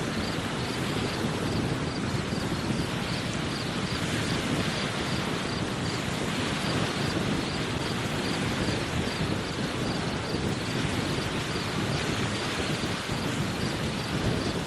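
Strong gusty wind blowing across the microphone, a steady rumbling roar with no clear rise or fall.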